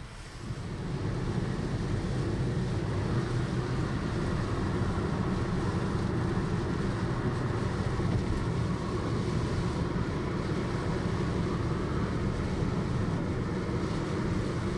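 A car driving in a typhoon's heavy downpour, heard from inside the cabin: a steady dense noise of rain and wet road that builds over the first second and then holds level.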